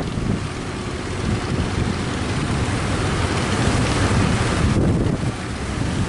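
Strong wind buffeting the microphone over the rush of breaking waves.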